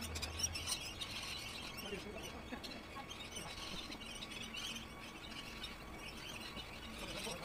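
Birds chirping in the background, many small calls overlapping.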